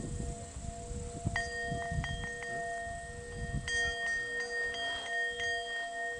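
Tibetan singing bowls ringing: a lower bowl's two steady tones hold throughout, while a smaller, higher-pitched bowl is struck about a second in and again near four seconds, each strike ringing on.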